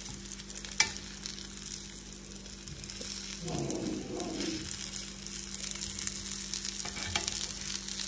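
Halved ripe plantains shallow-frying in oil in a cast-iron skillet, sizzling and crackling steadily. A single sharp clack comes a little under a second in.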